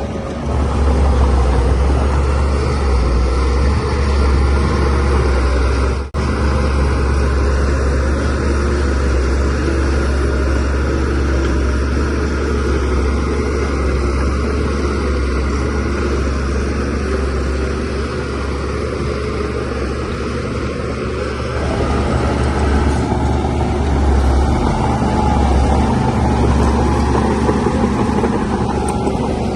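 Diesel engine of a DH17C3PRO crawler bulldozer running steadily with a low drone. The sound drops out for an instant about six seconds in.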